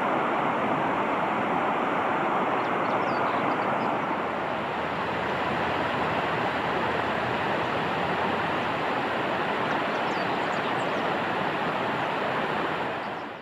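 A steady rushing noise, with a few faint high bird chirps about three seconds in and again near the end.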